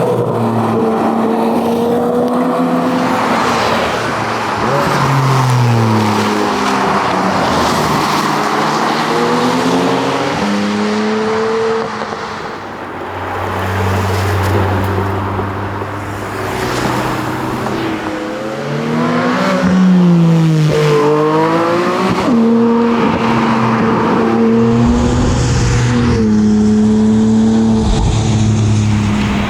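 Porsche Cayman GT4's 4.0-litre naturally aspirated flat-six accelerating hard, its pitch climbing and dropping again and again as it shifts gears and lifts for corners, with a quick run of sharp revs and drops about two-thirds of the way through.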